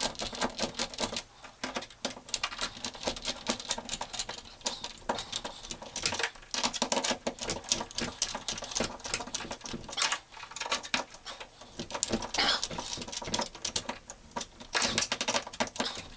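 Screws of a door handle set being tightened with a screwdriver: a quick, uneven run of small clicks and rattles from the tool and the handle hardware.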